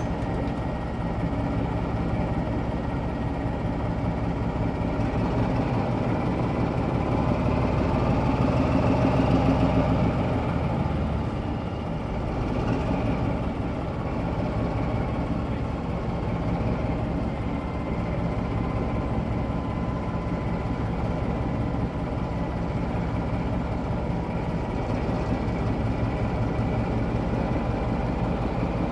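Train running with a steady rumble, swelling slightly about nine seconds in.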